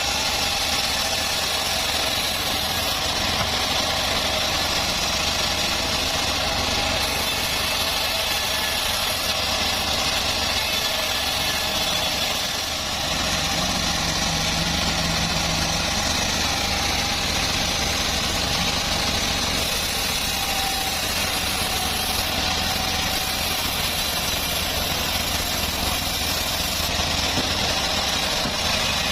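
Homemade bandsaw sawmill running steadily, a continuous machine noise that dips briefly about twelve seconds in.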